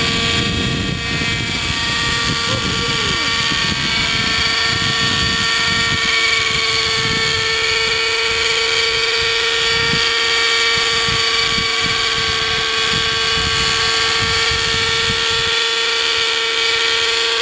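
Hirobo Sceadu model helicopter's .50-size two-stroke nitro engine and rotors running at a steady, even whine in flight. The revs sit lower than they should because the fuel mixture is not quite right. A low gusty rumble underneath eases off in the second half.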